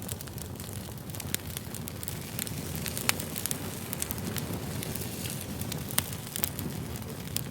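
Wood fire crackling, with irregular sharp pops over a steady low rumble of burning; two louder pops stand out, about three and six seconds in.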